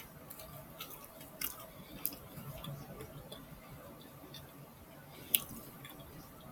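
Close-miked chewing of a soft burrito, with a few sharp wet mouth clicks, the loudest about five seconds in.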